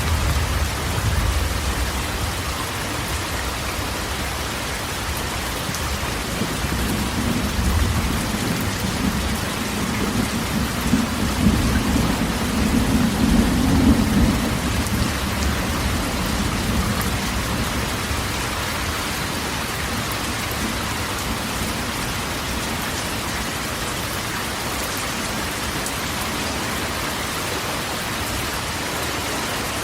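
Steady rain falling on a corrugated metal roof, with rolling thunder: a rumble at the start and a longer one building from about six seconds in, strongest around fourteen seconds, then fading.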